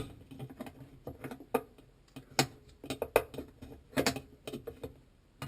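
Irregular clicks and light knocks of a Miele hook tool being pushed and twisted in the circulation-pump opening of a dishwasher sump, working it onto the impeller that has stuck from disuse.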